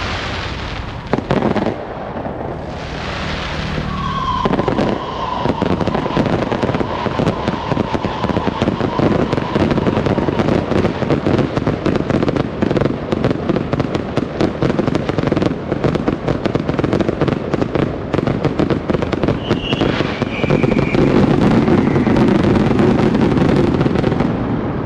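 Fireworks going off: a dense, continuous crackle of many small bursts, with a whistling tone about four seconds in and another around twenty seconds, getting louder near the end.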